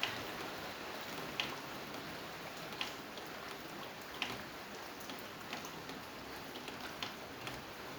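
Steady rain with a louder single drip landing about every second and a half, in a regular rhythm.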